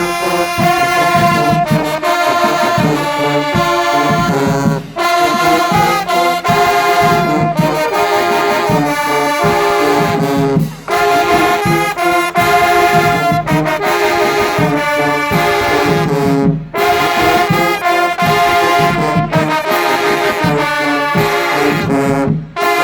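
Marching band brass section, trombones and trumpets, playing a tune in loud sustained chords, with short breaks between phrases about every five to six seconds.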